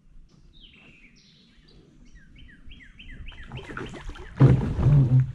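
A bird singing a run of whistled notes that slide downward, coming faster and faster. About four seconds in, a sudden loud splashing and thrashing in the water breaks in.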